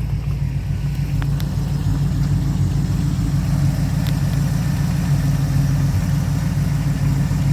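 Customized 1993 Toyota pickup's engine idling steadily with an even low exhaust rumble.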